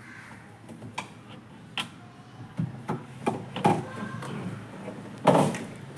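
Irregular knocks and clicks of hand tools and parts being handled while a refrigerator door is dismantled, the loudest knock just over five seconds in.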